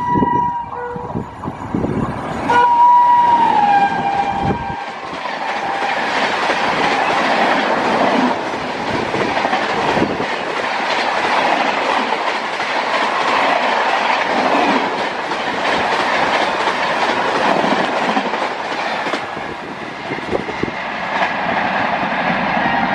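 Indian Railways express train passing at speed: its horn sounds with a drop in pitch, then the rush and wheel clatter of the coaches fill about fifteen seconds before easing off. A steady siren-like tone is heard at the start and again near the end.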